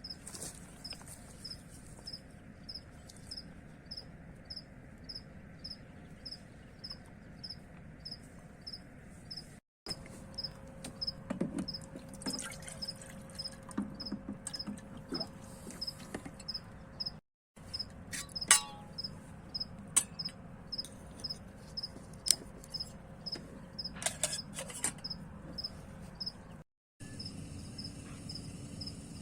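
A cricket chirping steadily at night, a short high chirp about twice a second, with a low background hum. A few sharp clicks and knocks break in now and then.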